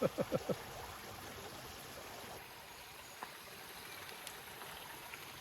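Waterfall: a steady, even rush of falling water. A few brief voice sounds come right at the start.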